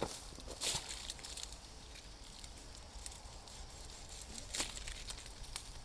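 Rustling in vegetation with a few sharp snaps or clicks: one at the start, one just under a second in, and one late on.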